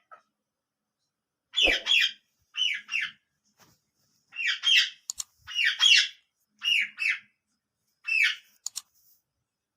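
Parrot calling in short two-note calls, about six pairs repeated over several seconds, with a few short sharp clicks in between.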